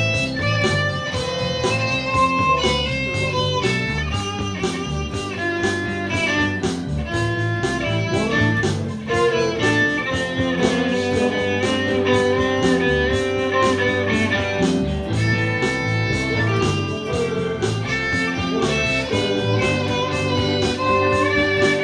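Instrumental break of a band song: guitar and fiddle playing over a steady beat, without vocals.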